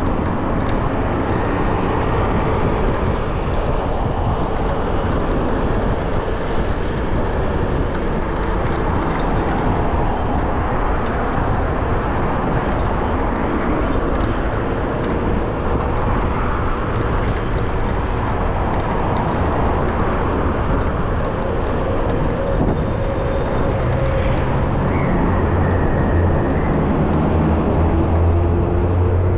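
Steady traffic and road noise heard from a moving bicycle in city traffic, with a vehicle's engine hum growing louder near the end.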